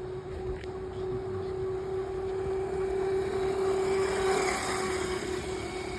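Razor Dirt Rocket MX350's 24-volt electric motor whining at a steady pitch as the bike rides, over a rasping rush of chain and tyre noise. It grows louder past the middle, then eases off near the end.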